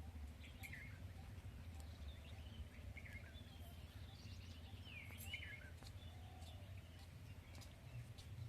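Faint outdoor ambience: small birds chirping briefly every second or so over a low, steady rumble.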